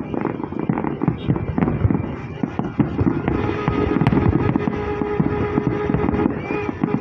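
Rapid crackling and popping of fireworks, with music holding steady notes joining in about three seconds in.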